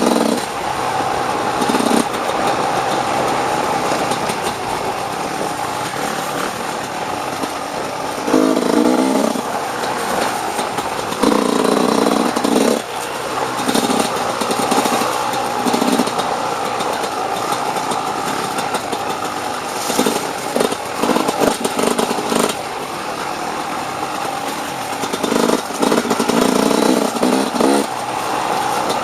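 Off-road dirt bike engine running under load while being ridden, its pitch rising and falling with the throttle, with several louder surges of acceleration.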